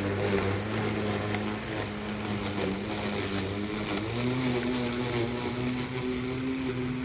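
Denali cordless battery-powered lawn mower running, its motor and blade giving a steady hum that steps up slightly in pitch about four seconds in.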